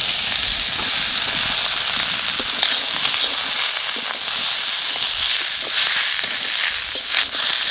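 Oil sizzling steadily in a wok of dried fish and spices as sliced bamboo shoots are tipped in and turned with a spatula, with scattered sharp crackles.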